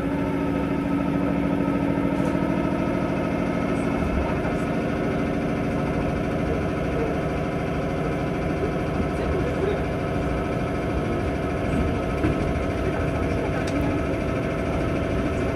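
Electric commuter train heard from inside the car as it pulls out of a station and gathers speed: a steady hum of motors and running gear over a low rumble.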